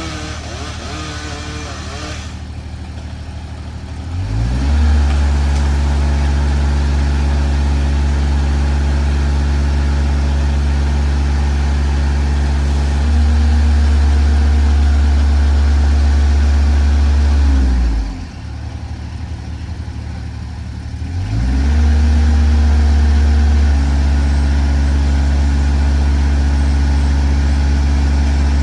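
A machine's engine running. It revs up about four seconds in and holds a steady high speed, drops back to idle about eighteen seconds in, then revs up again a few seconds later and holds.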